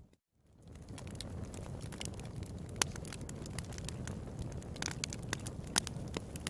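Wood fire in a fireplace crackling: a steady low rumble under many scattered sharp pops and snaps, a few of them louder. The sound cuts out completely for a moment just after the start.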